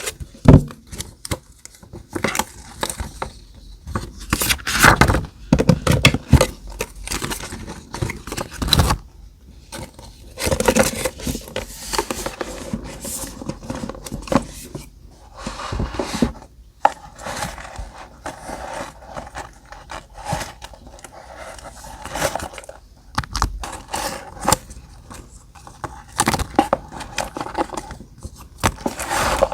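Paper and stationery being handled close to the microphone while a journal page is decorated. Irregular rustling and scraping of paper, with short taps and clicks.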